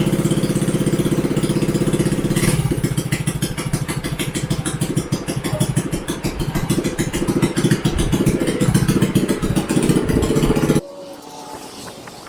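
Straight-piped Predator 212 single-cylinder engine on a homemade rice tractor running loud, steady for the first couple of seconds, then pulsing unevenly as its speed rises and falls. Near the end the engine sound drops away suddenly to a much quieter background.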